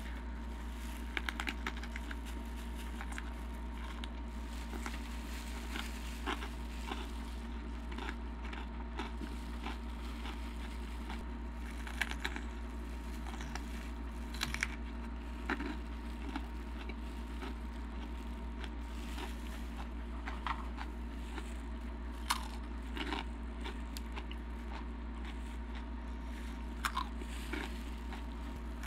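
Biting and chewing jalapeño peppers stuffed with cream cheese and hard rolled Takis tortilla chips: irregular crisp crunches a second or a few seconds apart as the chips break. A steady low hum runs underneath.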